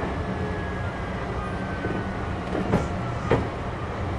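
Running noise of a Kintetsu 6200 series electric train: a steady rumble of wheels on rail, with a faint whine sliding slowly down in pitch. Three sharp clacks come a little past halfway, typical of wheels crossing rail joints.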